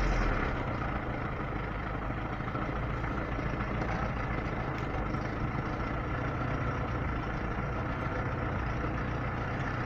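Lada Niva four-cylinder engine idling steadily just after start-up, freshly valve-adjusted, a little louder in the first second before settling. The ringing valve tap is gone; the owner hears only a dull knock, which he puts down to the timing chain.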